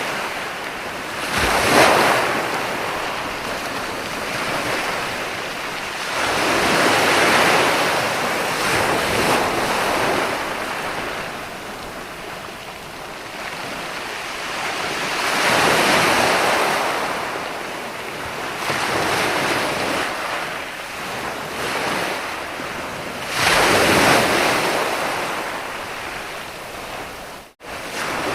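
Ocean surf: waves break and wash in a slow, uneven swell, with the biggest surges about 2, 7, 16 and 24 seconds in. The sound cuts out for an instant near the end.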